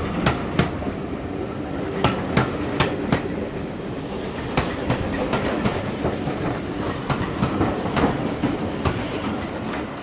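Railway passenger coaches rolling past close by: a steady rumble broken by sharp clickety-clack as the wheels cross the rail joints, the clicks often coming in quick pairs. The sound grows a little fainter near the end as the last coaches pull away.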